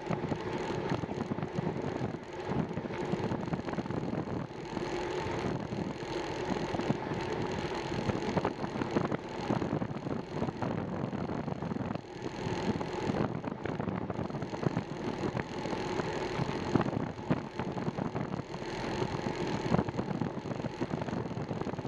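Steady rolling and wind noise of a bicycle being ridden: tyres on pavement with air rushing over the microphone, constant with a faint hum.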